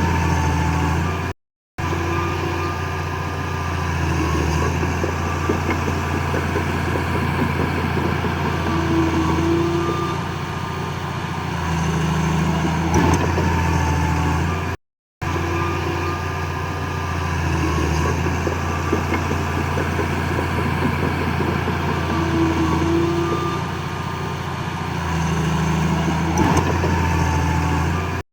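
Heavy earthmoving machinery's diesel engine running, its low drone swelling and easing with load, with faint wavering squeals now and then. The sound cuts out briefly twice.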